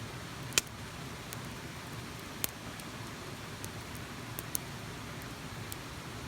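Fast-flowing mountain stream rushing over a small rapid: a steady, even rush of water. A few sharp crackling pops cut through it, the loudest about half a second in, with smaller ones around the middle and later.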